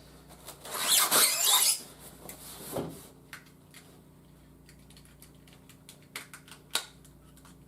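A plastic toy figure and its packaging being handled: a loud rustle of plastic about a second in, then scattered small plastic clicks and taps, one sharper click near the end.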